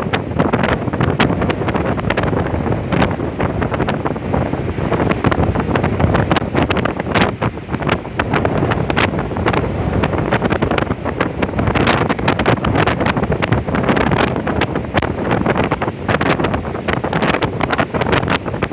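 Storm-force wind buffeting the microphone in heavy gusts: a dense, loud rumble shot through with many sharp crackles and pops.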